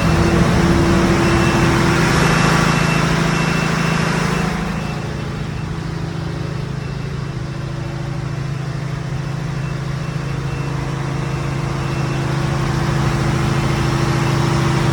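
Scallop boat's engine running steadily. It eases off about four and a half seconds in and slowly builds up again near the end.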